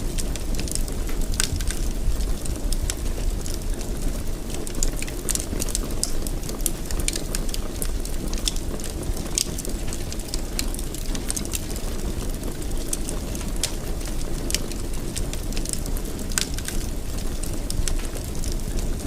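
Fire burning in a fireplace: many irregular crackles and pops over a steady low roar.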